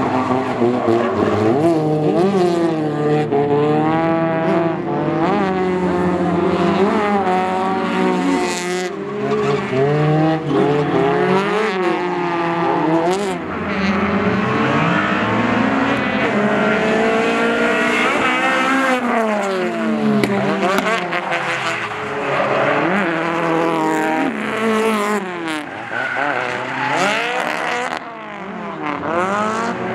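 Drift cars on a track, engines revving hard and repeatedly rising and falling in pitch through gear changes, with tire squeal and skidding.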